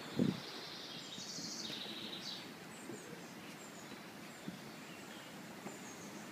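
Garden ambience with small birds chirping, including a high trill lasting about a second and a half, between roughly one and two and a half seconds in. A short low thump, the loudest sound, comes just after the start.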